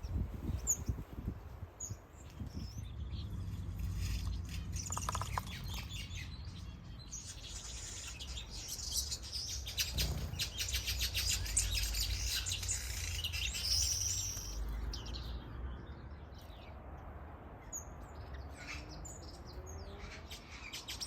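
A flock of small aviary finches chirping and twittering together, with many short high calls overlapping. The chatter is busiest in the middle. A low rumble runs underneath.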